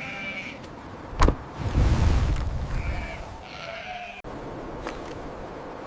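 Sheep bleating, one call at the start and another about three seconds in, over low rumbling wind noise. A sharp knock about a second in is the loudest sound.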